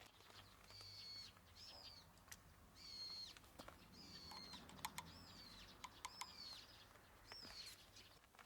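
Faint bird calls: a series of about seven short, high chirps, each falling slightly at its end, with a few light clicks in between.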